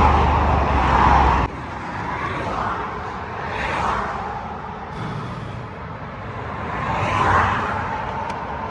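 Audi TT MK1 engine idling with a steady low hum, then switched off suddenly about a second and a half in. Motorway traffic then passes in swells every few seconds.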